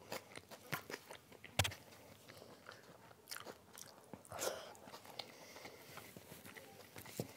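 A person eating rice and curry by hand: chewing and wet mouth clicks, with one sharp click about a second and a half in and a louder, longer mouthful about four and a half seconds in.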